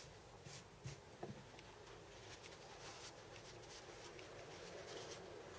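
Faint scraping and scattered light clicks of hand work on metal parts, barely above the room hiss.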